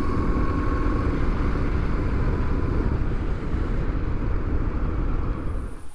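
Motorcycle engine running at steady speed while riding, heard with a dense, even low rumble.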